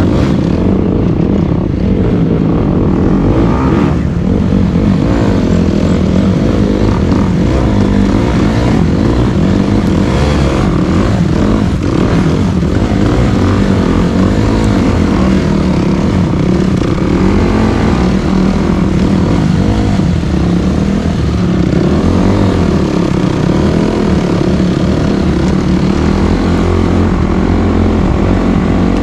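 Dirt bike engine running steadily, its pitch shifting a little as the revs change.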